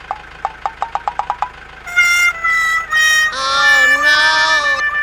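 Comic cartoon-style musical sound effect. It opens with a quick run of short plucked notes that speed up, then turns into held, wavering harmonica-like tones that slide up and down in pitch.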